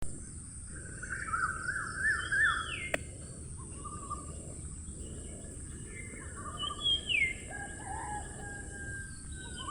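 Birds chirping and calling: quick warbling chirps about one to three seconds in, and short falling whistles near three and seven seconds in, over a steady high hiss.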